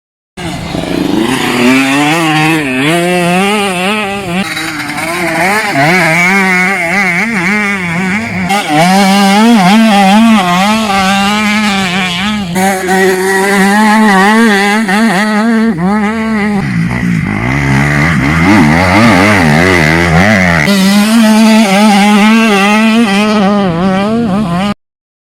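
Motocross bike engines revving hard, the pitch rising and falling constantly as riders work the throttle through the track. The sound changes abruptly several times, as from cuts between shots.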